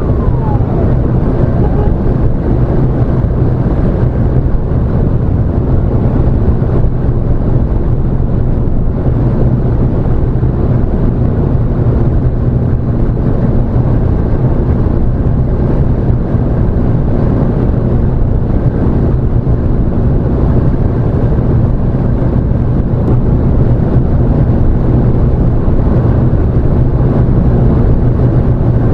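Steady engine and road drone of an emergency response vehicle driving at speed, heard from inside the cabin. A siren wail falls in pitch and stops within the first second.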